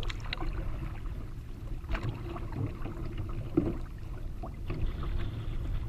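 A canoe being paddled over choppy water: the paddle splashes and water slaps at the hull every second or two, over a steady low rumble of wind and waves.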